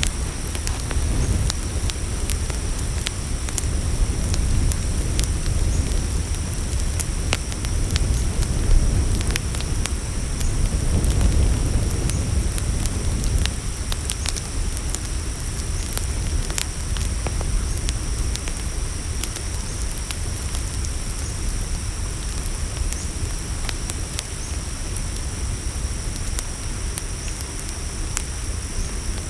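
Campfire crackling, with scattered sharp pops and snaps over a low rumble of burning wood. A steady high chorus of crickets runs underneath.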